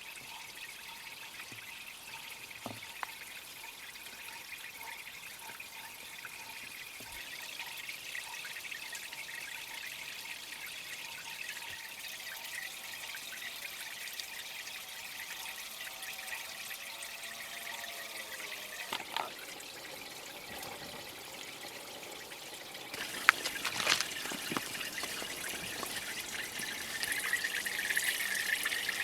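Water trickling and pouring steadily. It turns louder about three quarters of the way through, with a few sharp knocks.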